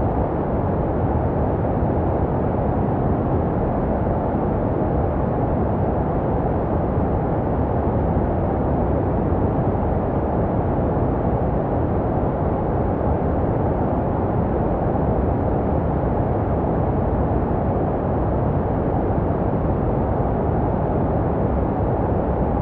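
Steady, unbroken white noise for soothing a baby to sleep: a deep, muffled rush with little hiss at the top. It does not change.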